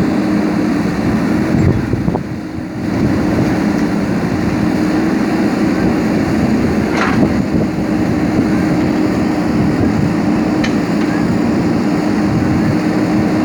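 JCB backhoe loader's diesel engine running with a steady drone, dipping briefly about two seconds in, with a couple of short clanks partway through.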